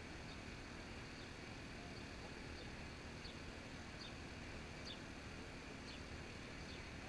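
Faint, short, high bird chirps, several scattered over a few seconds, above a steady low outdoor background hiss.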